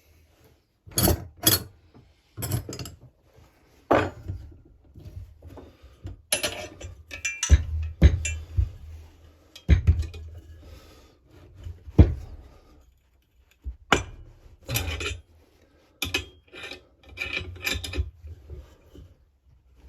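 Hammer knocks on a Husqvarna 346XP chainsaw crankcase, struck irregularly with scraping and handling between, to drive the stuck crankshaft out of its bearing and split the case.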